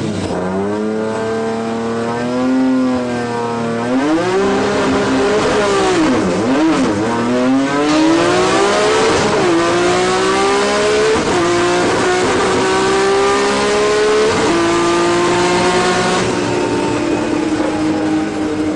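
A performance car's engine accelerating hard, revving up through the gears: the pitch climbs and falls back sharply at each upshift, several shifts in a row.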